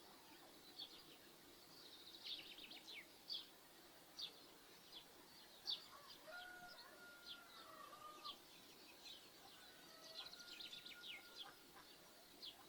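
Small birds chirping throughout, with a rooster crowing faintly twice, once in the middle and again near the end.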